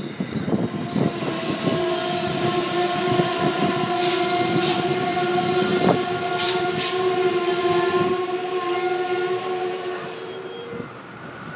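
Amtrak passenger train pulling into the station, wheels and brakes squealing in several steady high tones over the rumble, with a few brief hisses in the middle; the squeal stops near the end as the train slows to a stop.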